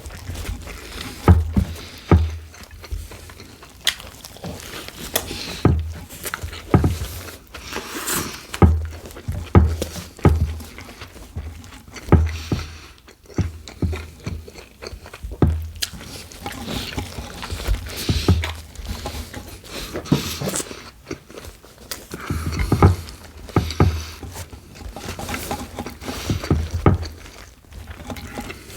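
Close-miked handling noises: irregular knocks, scrapes and rustles, many with a dull thump, as the sandwich and its wrapping are handled at the table before eating starts.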